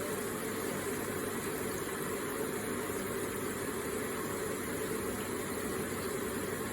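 Water flowing steadily from an electric water feature: an even, unbroken rush of water sound.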